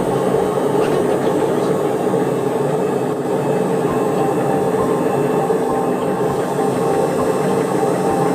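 A machine running steadily: an even mechanical hum with a few steady tones and no change in pace.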